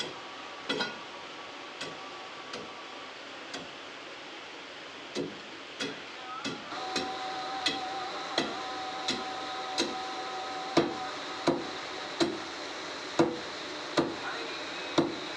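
Repeated hammer blows on a wall being broken, scattered at first and then settling about halfway through into a steady beat of about three blows every two seconds. A steady hum with a few held tones runs behind.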